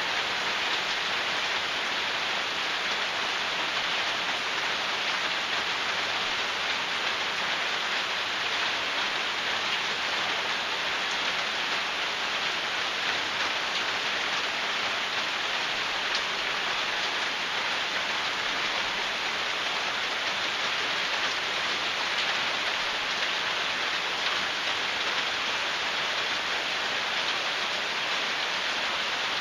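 Steady, heavy rain drumming on a corrugated tin roof, heard from underneath it: a dense, even patter that doesn't let up.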